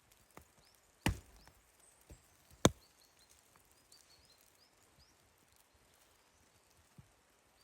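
Two sharp chopping strikes on wood about a second and a half apart, the second the loudest, with a few fainter knocks around them.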